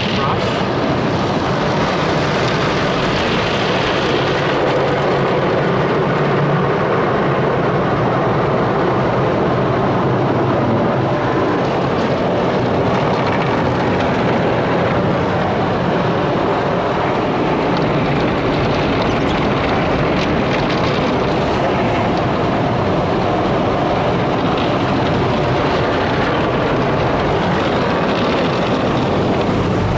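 Macneil tunnel car wash equipment working over the car, heard from inside the cabin as a loud, steady rush with no breaks.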